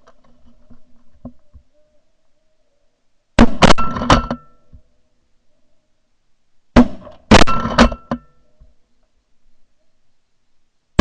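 Shotguns firing at snow geese in two quick volleys about three seconds apart, several shots in each from more than one gun. The blasts are very loud and ring out briefly after each shot.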